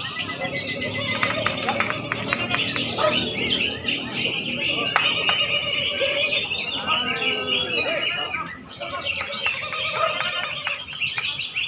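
Many caged songbirds singing at once in a dense, unbroken chorus of chirps, trills and whistles.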